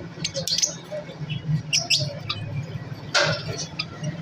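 Many small cage birds chirping in quick, overlapping short calls, with one louder, harsher call about three seconds in, over a steady low hum.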